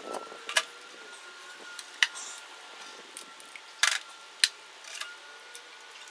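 Sharp metallic clicks and clinks of tools and small engine parts being handled during reassembly of a single-cylinder Briggs & Stratton engine: about five separate knocks, one just before four seconds a little longer and ringing. A faint steady high hum runs underneath.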